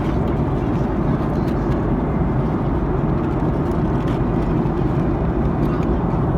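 Steady cabin roar of an Airbus A310-304 in cruise, engine and airflow noise heard from inside the passenger cabin, with a few faint clicks.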